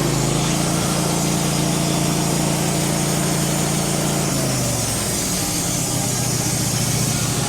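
Gasoline engine of a Wood-Mizer LT15 band sawmill running steadily, its pitch dropping and shifting about four seconds in before it settles again.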